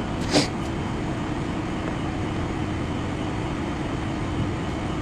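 Steady low mechanical running noise with a faint hum, and one brief high hiss about half a second in.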